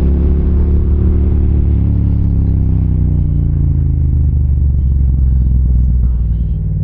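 Yamaha MT-07 parallel-twin motorcycle engine running steadily while riding, its pitch easing down a little about two seconds in and then holding.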